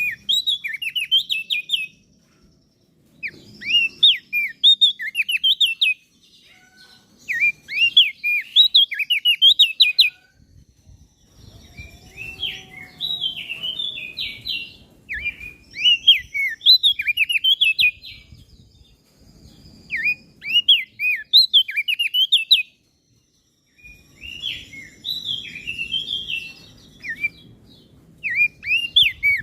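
A small songbird singing a repeated song of fast, sharp, falling notes, delivered in phrases of about two seconds with short pauses between them.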